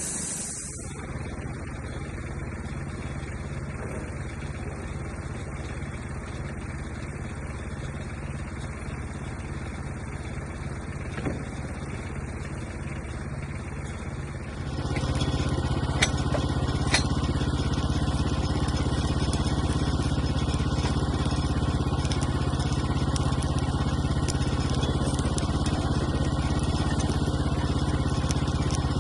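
An engine running steadily, getting louder and fuller about halfway through and holding there.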